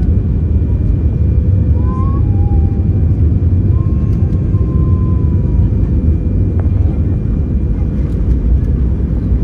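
Airbus A320 cabin noise heard from inside the cabin: a steady, loud rumble of the engines and airflow, with a faint steady whine over it.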